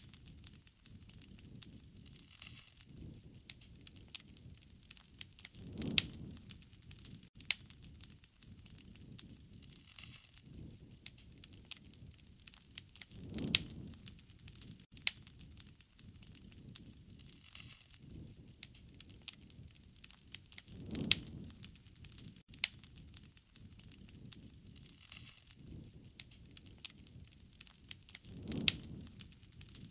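Campfire crackling, with many sharp pops and snaps of burning wood, and a low rushing swell of the flames about every seven to eight seconds.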